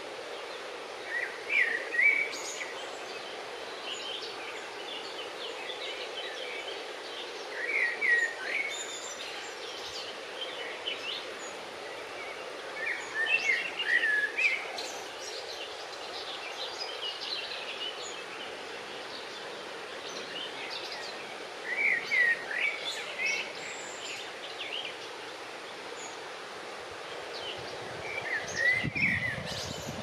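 A songbird singing a short phrase of quick chirping notes five times, roughly every six to eight seconds, over a steady outdoor background hiss.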